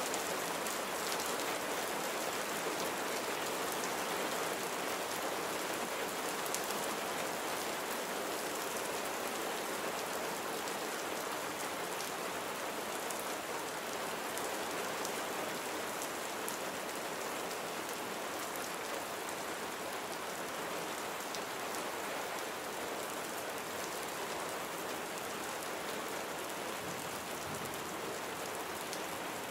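Steady rain falling on surfaces, a constant hiss with many small drop ticks.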